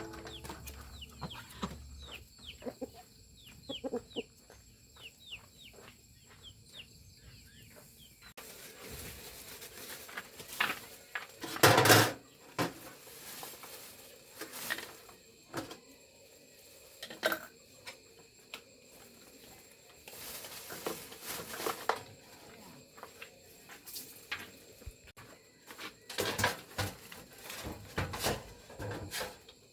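Birds calling: many short, rapid chirps for the first eight seconds, then scattered clucking calls and knocks, with a loud knock about twelve seconds in.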